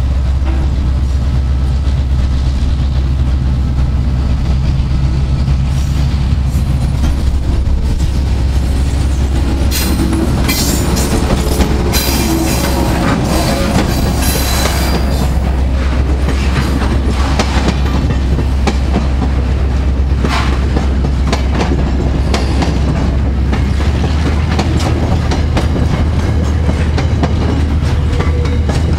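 NR-class diesel freight locomotive droning past, then a long container train rolling by, its wheels clacking over the rail joints in a run of quick clicks. The engine's low drone fades after about seven seconds and the clicking takes over, with some high-pitched wheel noise in the middle.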